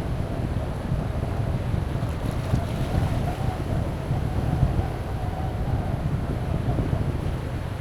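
Strong wind buffeting the microphone in a low, gusting rumble, with sea surf washing underneath. A faint wavering hum rises in the middle and fades before the end.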